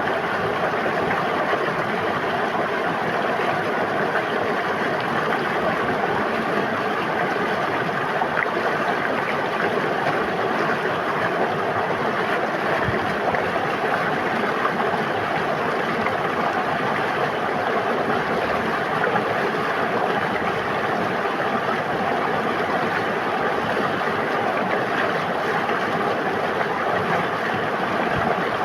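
River water flowing and babbling steadily, an even rushing with no change in level.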